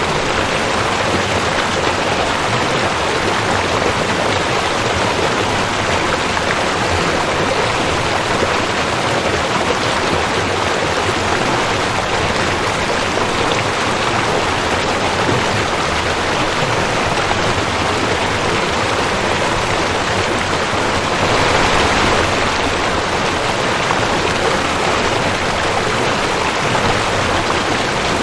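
Rushing creek water, a steady dense rush of flowing water over rocks, swelling slightly about three-quarters of the way through.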